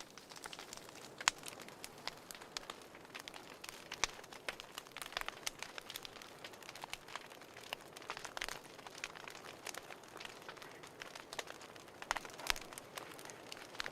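Wood fire crackling: irregular sharp pops and snaps over a soft steady hiss, with a few louder snaps about a second in, about four seconds in and near the end.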